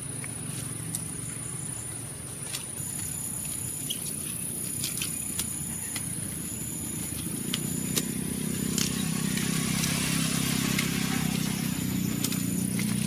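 A low engine hum, growing louder about halfway through, under a steady high-pitched insect drone, with scattered light clicks.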